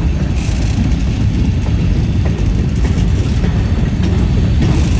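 Freight cars of a passing manifest train rolling by on the rails: a steady, loud low rumble with scattered faint clicks.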